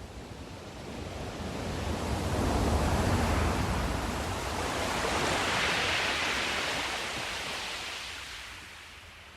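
Ocean surf: a wave swells up, breaks with a deep rush, then washes in with a higher rushing sound that fades away near the end.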